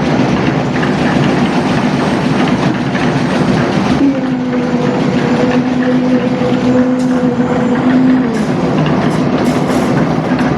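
Heavy construction machinery running steadily with a loud clattering rumble. A steady tone joins about four seconds in and stops about four seconds later.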